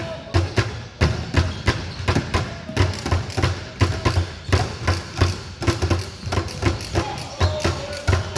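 Several basketballs bouncing on a gym floor, an irregular run of low thumps, several a second and often overlapping, as players dribble.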